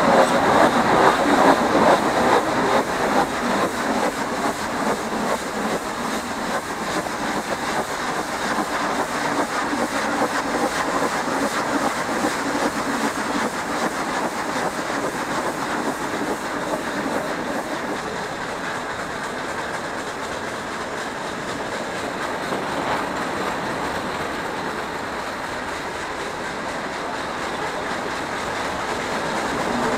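Nilgiri Mountain Railway toy train running along its metre-gauge track, heard from an open carriage window. The noise is loudest at the start, while the carriage is still in a rock tunnel. It then settles lower in the open and grows again near the end.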